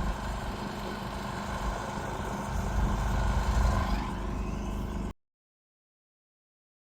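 An engine running steadily with a low hum, swelling slightly about three to four seconds in. It cuts off abruptly about five seconds in, leaving dead silence.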